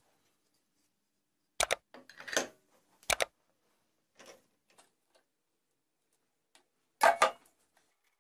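A few separate sharp knocks and clicks of hard objects being handled, the loudest cluster near the end, with silence between them and no lathe running.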